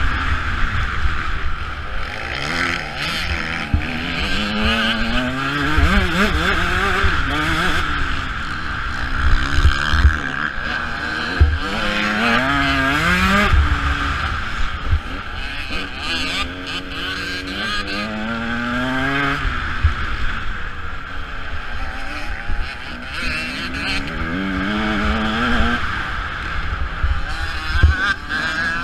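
Motocross bike engine revving hard, its pitch climbing and dropping again and again as the rider accelerates, shifts and backs off. A steady rushing noise and frequent low thumps run underneath.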